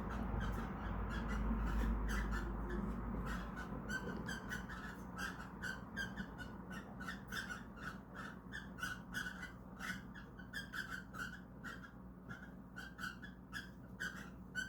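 Cockatiel giving short chirps in a fast, even series, about three a second, the call made during a mating attempt. A low rumble sits under the first few seconds.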